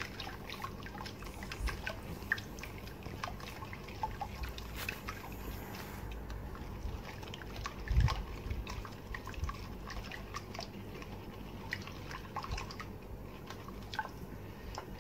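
Hand whisk stirring runny cake batter of sugar, oil, eggs and milk in a bowl, making irregular wet clicks and splashes. A single louder knock comes about halfway through.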